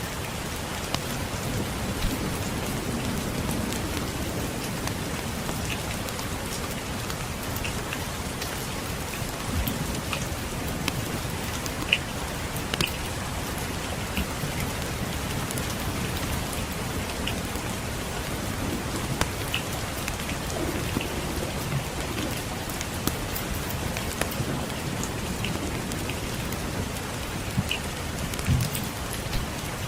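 Steady rain falling, with scattered sharp crackles and pops from a wood fire in a fireplace. Soft low rumbles swell now and then underneath.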